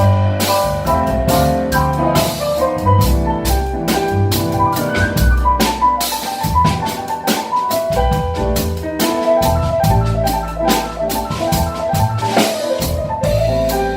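Jazz piano trio playing: piano melody and chords over walking bass notes, with a drum kit keeping time on cymbals and drums.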